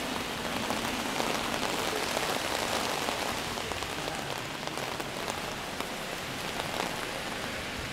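Heavy rain falling steadily, drops striking the open umbrella held over the microphone and the wet street around it: a dense, even hiss peppered with sharp drop ticks.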